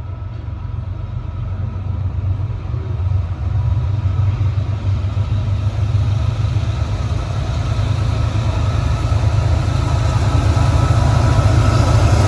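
Diesel locomotives of an approaching freight train: a steady low engine rumble that grows gradually louder.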